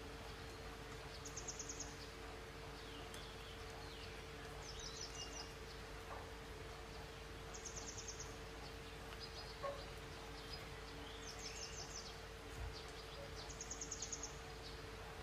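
Faint bird chirping: a short, rapid, high trill repeats about every three seconds among softer chirps, over a steady low hum.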